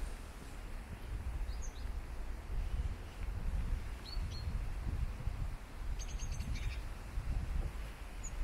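Birds giving short high chirps a few times, including a quick run of them about six seconds in, over a steady low rumble.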